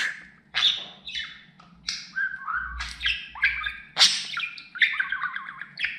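Budgerigar chattering and warbling: a quick, unbroken run of chirps, squawky notes and pitch glides.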